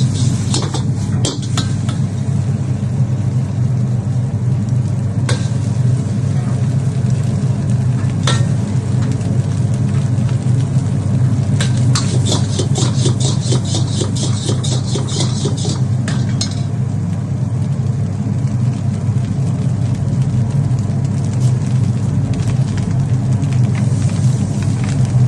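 Chicken fried rice stir-frying in a pan: sizzling, with a metal spatula scraping and striking the pan. There are single clanks now and then and a fast run of strokes about halfway through, all over a steady low rumble.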